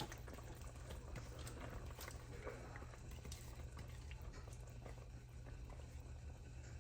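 Pot of chicken and water boiling faintly on the stove, with scattered light ticks and taps over a steady low hum.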